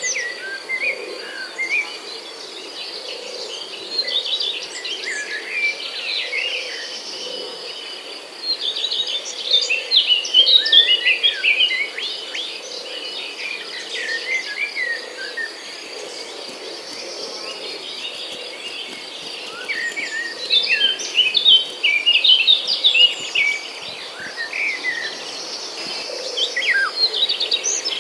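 Several birds chirping and calling in short, quick phrases over a steady high insect drone. The birdsong comes in busier spells about a third of the way in and again past the two-thirds mark.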